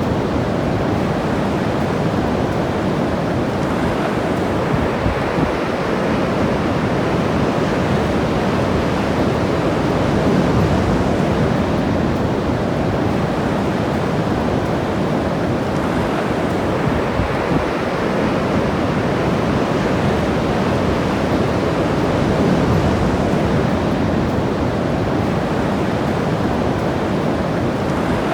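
Ocean surf breaking and washing up the shore, a steady rush that swells and eases a few times, with some wind on the microphone.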